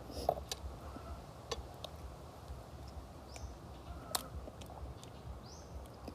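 Faint scattered clicks and ticks, the sharpest about a second in and about four seconds in, over a low steady background noise, with a bird's short high chirp twice in the second half.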